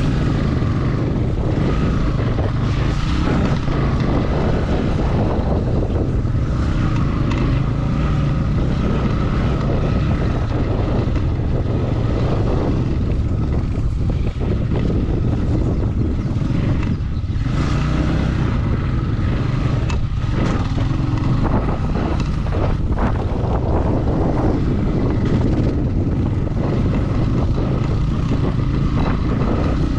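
Motorcycle engine running steadily under way, with a low, even drone.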